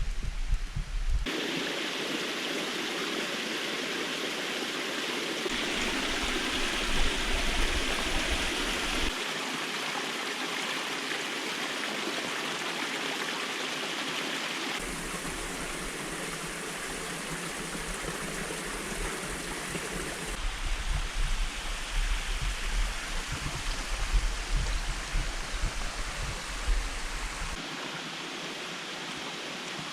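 A creek's running water, a steady rushing and gurgling that changes character abruptly several times, with a low rumble in some stretches.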